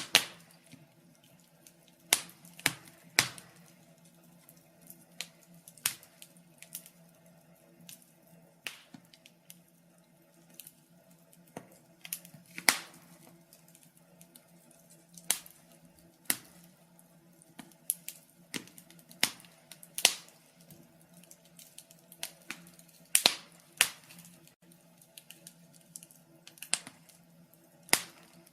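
Wood fire crackling: irregular sharp pops and snaps every second or two, some in quick pairs, over a faint steady low hum.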